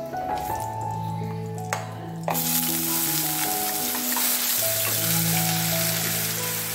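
Hot coconut oil with whole spices suddenly sizzles loudly about two seconds in, as ground onion and green chilli paste hits the pan. It keeps up a steady frying hiss while a wooden spatula stirs it. Background music plays with held notes.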